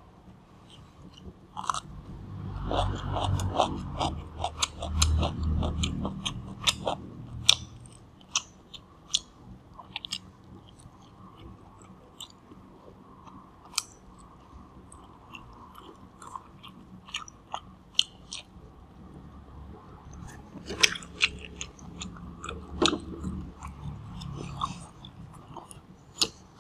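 Close-miked eating: crisp bites and chewing of a pickled cucumber, with many sharp crunches and wet mouth clicks. The crunching is loudest over the first several seconds, then quieter lip smacks and finger-licking follow, and another round of crunching comes about three quarters of the way through.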